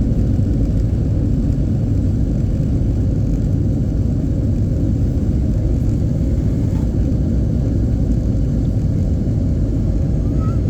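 Steady, loud low rumble inside an airliner cabin during landing: engine and airframe noise, unchanging in level.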